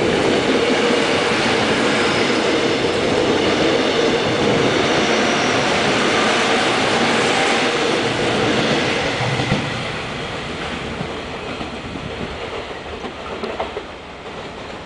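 Korail 311000-series electric multiple unit pulling out close by: a loud, steady rumble of wheels on rail with a hum. It falls away sharply about nine or ten seconds in. After that comes a quieter train sound with a few wheel clicks.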